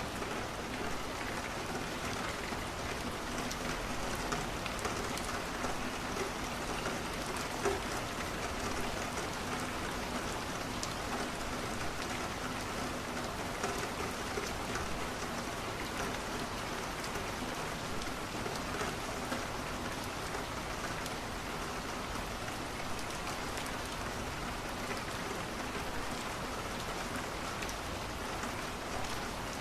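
Steady rain falling against a window, with many small drops pattering and light crackles mixed in, the kind a wood fire gives.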